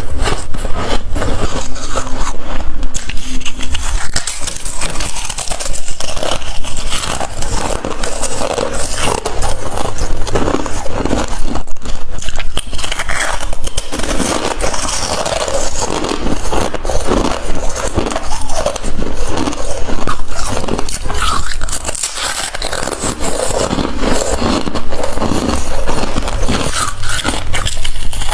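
Close-miked chewing of ice: dense, continuous crunching and crackling as the ice is bitten and ground between the teeth.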